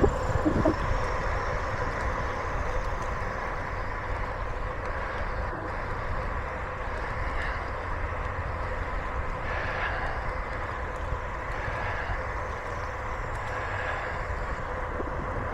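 Steady rush of wind on the microphone over the hum of bicycle tyres rolling on smooth pavement while riding.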